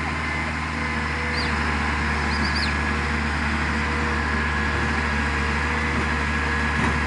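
Engine running steadily at a constant speed, with an even low hum.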